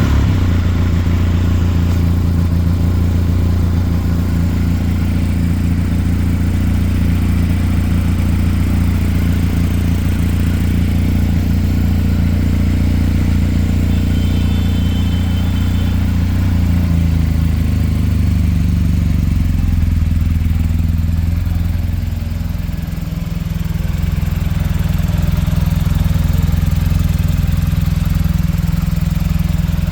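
BMW R 1250 GS motorcycle's boxer twin engine idling steadily just after a start, the idle dipping slightly and settling about two-thirds of the way through.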